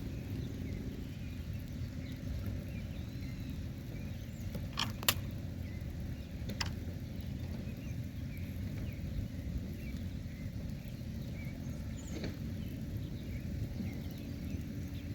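Steady low rumble of wind on the microphone, broken by a few sharp clicks and knocks: two close together about five seconds in (the second the loudest), one shortly after, and one near twelve seconds. Faint high chirps of birds or insects run underneath.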